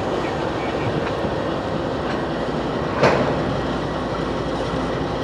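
CSX freight train of single-stack intermodal cars rolling past with a steady rumble of wheels on rail. One sharp bang about three seconds in.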